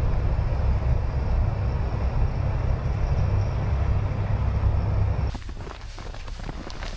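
A loud, steady low rumble with a faint hiss over it, cutting off suddenly about five seconds in to a quieter outdoor noise.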